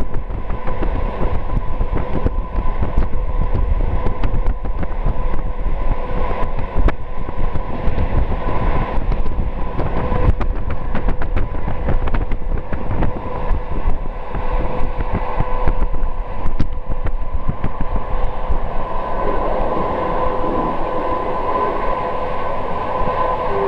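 Passenger train running along the track, heard from inside a carriage: a steady rumble of wheels on rail with irregular clicks and a constant hum.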